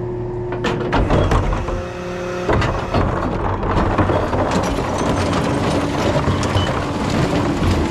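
Rear-loader recycling truck running, its steady engine and hydraulic tones shifting in pitch, with irregular sharp knocks and clanks, the strongest about a second in and again at two and a half seconds.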